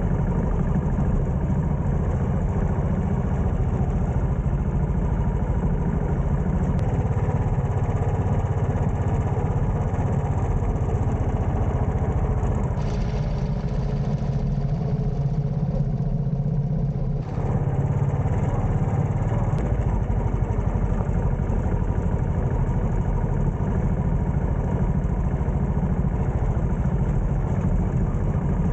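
Royal Enfield motorcycle engine running steadily while being ridden, its sound easing slightly for a few seconds about halfway.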